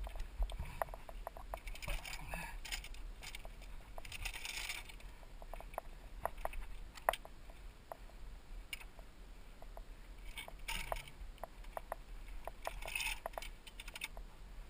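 Mountain bike descending a dirt trail, recorded from a helmet camera: tyres crunching over dirt and gravel, with scattered clicks and rattles from the bike over bumps and a low wind rumble.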